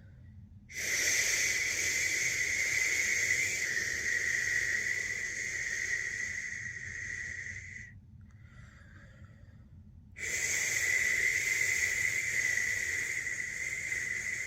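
A person shushing, a long drawn-out 'shhh' held for about seven seconds, a short pause, then another long 'shhh' that carries on: the steady shushing used to lull a newborn to sleep.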